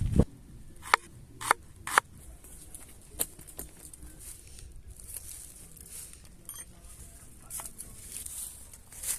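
A low thump, then several sharp snaps or clicks over the first two seconds and another about three seconds in, followed by soft intermittent rustling.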